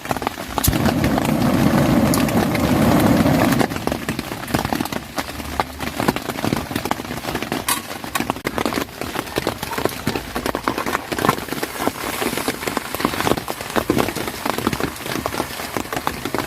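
Heavy rain, with many individual drops ticking sharply against a surface. Under a second in, a louder, denser rush of noise sets in and stops about three and a half seconds in.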